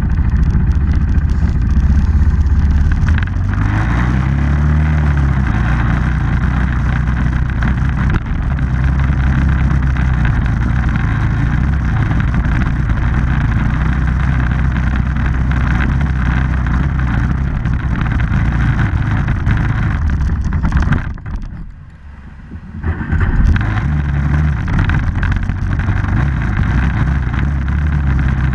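Small off-road vehicle engine running under way, its revs rising and falling back a few seconds in. The sound drops away sharply for about two seconds roughly three-quarters of the way through, then returns to steady running.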